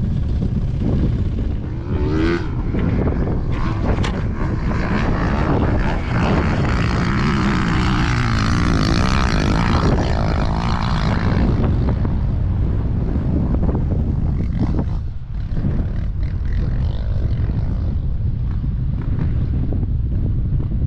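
Dirt bike engine running as the bike is ridden, the revs rising and falling. It is loudest through the middle stretch and eases briefly about fifteen seconds in.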